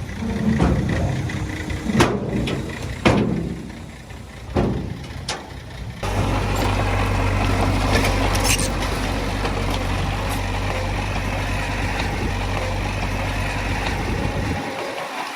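Diesel engine of heavy earthmoving machinery running, with a few sharp clanks in the first half. About six seconds in, the sound changes abruptly to a steady low engine drone, which fades near the end.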